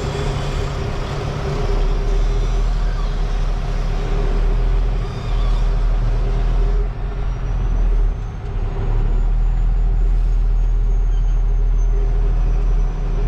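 Semi-truck diesel engine running steadily at low speed, heard from inside the cab, with a thin high whine in the second half.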